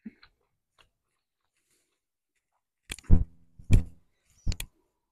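Close-miked chewing of spaghetti with sardines: wet mouth clicks, then a few loud, low, short thumps from about three to four and a half seconds in.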